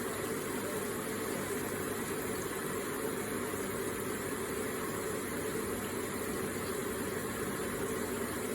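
Electric water feature running: a steady flow of water splashing and trickling with no changes.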